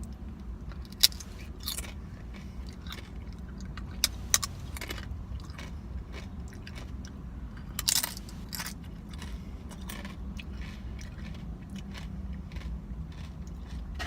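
Close-miked chewing and biting into a shrimp taco, with sharp crunches and mouth clicks scattered through, the strongest about a second in, around four seconds in and about eight seconds in, over a steady low hum.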